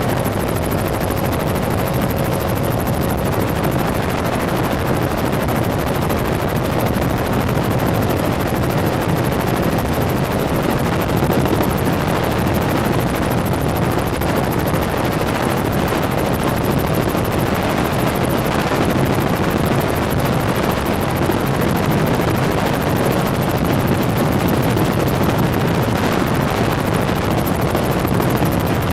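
Helicopter engine and rotor noise heard from inside the cabin in flight: a loud, steady drone that holds unchanged.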